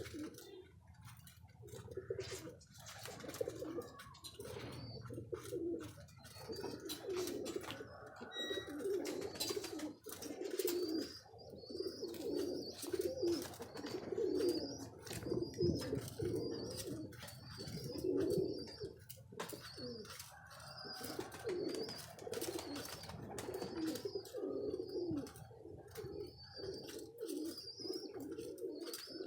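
Many domestic pigeons cooing together in steady, overlapping low coos, with scattered taps and clicks. From about a third of the way in, a high thin chirp repeats about once a second over the cooing.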